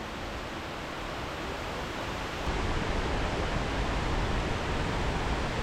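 Steady rushing of a waterfall, turning louder and deeper about halfway through.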